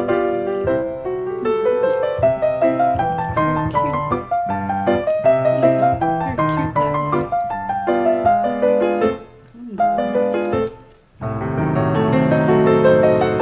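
Background piano music, quick runs of notes, briefly dropping out twice in the second half.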